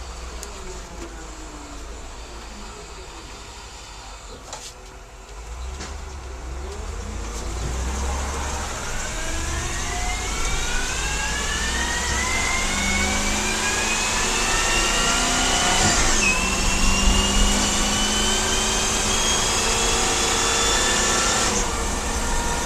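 School bus's 8.1-litre gas V8 pulling through an Allison automatic. The engine winds down at first, then accelerates with its pitch climbing steadily. About two-thirds of the way in the pitch drops as the transmission shifts up, and the engine climbs again.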